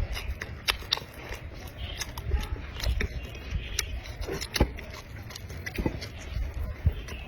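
Close-miked chewing and biting of food, with wet smacking and sharp clicks that come irregularly, several a second.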